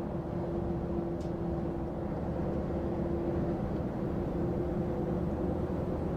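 Lorry cab interior noise while cruising: a steady engine drone and road noise with an even hum.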